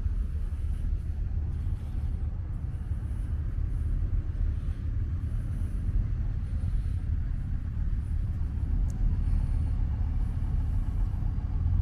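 Steady low rumble with faint outdoor background noise.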